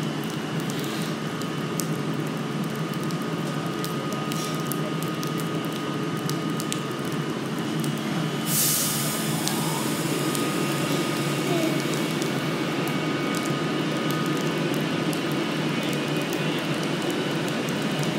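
Electric express passenger train running past close by: a steady rumble of wheels on the rails with a faint whine, and a short hiss about eight and a half seconds in.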